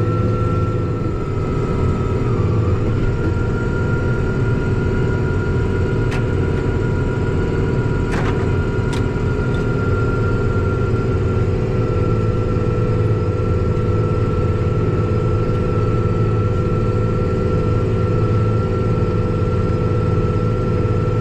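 Farm tractor engine running steadily under load while pulling a plow, with a constant high whine over the engine's drone and a few faint clicks.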